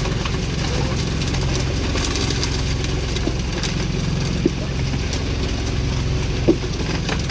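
An engine running steadily at low speed on a fishing boat, with a couple of short knocks about four and a half and six and a half seconds in.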